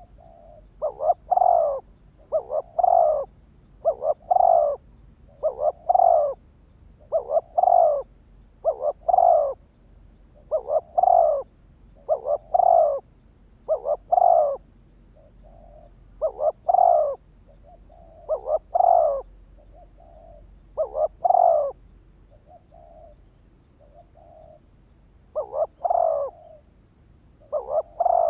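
Spotted dove cooing its territorial song, a short phrase of two or three notes repeated about every one and a half to two seconds, with fainter phrases between the loud ones.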